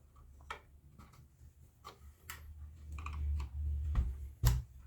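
Scattered light clicks and taps of hands handling the plastic sewing machine housing and its screws, with a low rumble building in the second half and a sharper knock near the end.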